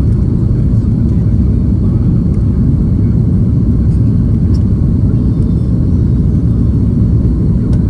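Steady low rumble of jet airliner cabin noise, the engines and airflow heard from inside the passenger cabin.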